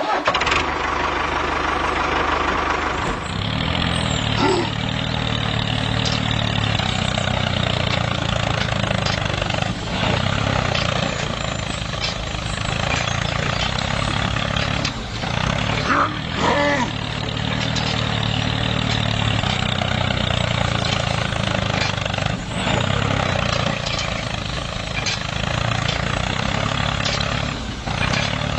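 Homemade tractor's engine running steadily, with a few brief knocks and clatters over it.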